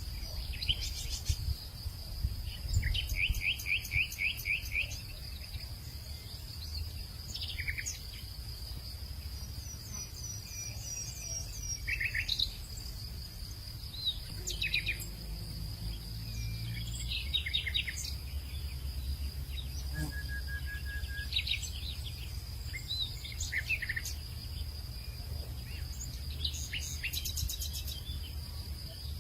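Small birds chirping and trilling in short, scattered calls over a steady high-pitched insect drone, with a low rumble underneath.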